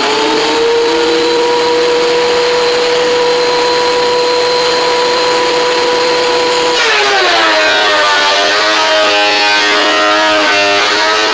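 WEN 13-inch benchtop thickness planer running free with a steady high whine. About seven seconds in its pitch sags and turns rougher and wavering as a rough-cut cedar board is fed through and the cutterhead takes the motor under load.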